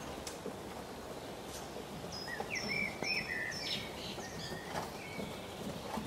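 A songbird sings a short phrase of clear, repeated whistled notes about two seconds in, lasting about two seconds, over a steady outdoor background hiss.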